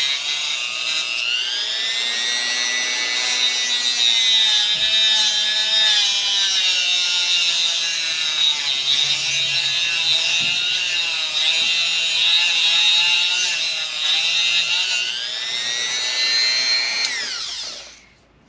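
Dremel rotary tool running at high speed against a seized metal screw, a high whine whose pitch sags and recovers as it bites. It winds down and stops near the end.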